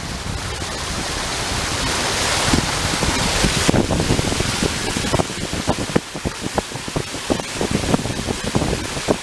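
Steady rushing noise with wind buffeting the microphone, a hissing gust swelling for about two seconds near the middle, then irregular low thumps of wind on the microphone.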